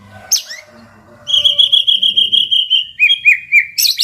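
White-rumped shama (murai batu) singing: a sharp falling whistle, then a fast trill of repeated notes about eight a second, three rising notes, and a loud burst near the end.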